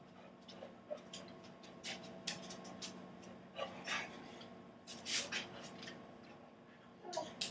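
Scattered light clicks and brief scuffles of a dog working at a closed refrigerator door, tugging at a sock tied to it to pull the door open, over a faint steady hum.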